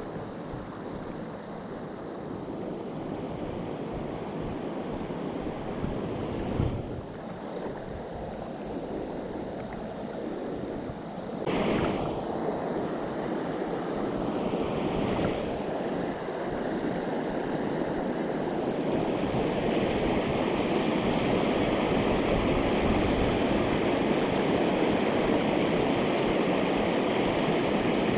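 Mountain stream rushing over rocks, a steady wash of flowing water that grows louder about two-thirds of the way through. A brief thump comes about a quarter of the way in, and a short louder burst of noise about halfway.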